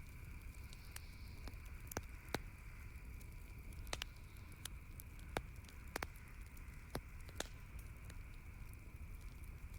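Wood campfire crackling, with about ten sharp irregular pops and snaps over a soft steady hiss.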